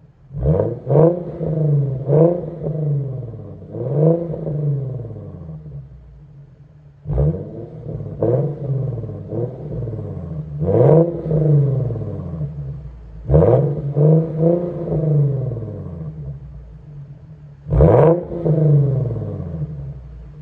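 Infiniti Q50's 3.7-litre VQ V6 with its muffler deleted, revved from idle in about a dozen quick blips, some in close pairs; each climbs sharply in pitch and falls back to a steady idle.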